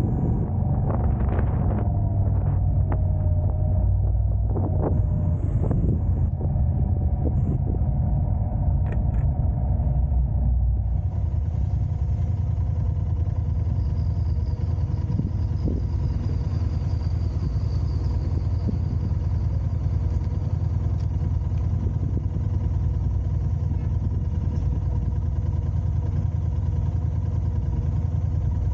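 Car driving: a steady low rumble of engine and road noise, with a few sharp clicks in the first ten seconds and a brighter hiss joining about eleven seconds in.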